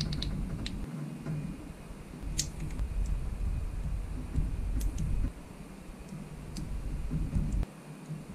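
Plastic model kit parts being handled, with a scattering of sharp clicks over low rumbling handling noise.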